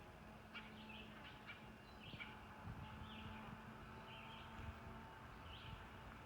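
Faint songbird chirps, short high calls coming every second or so, over a low steady background hum.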